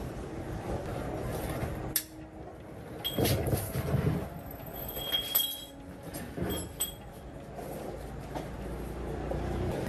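Rough mechanical rumble with uneven surges, broken by a sharp knock about two seconds in and several short metallic clinks and rings in the middle.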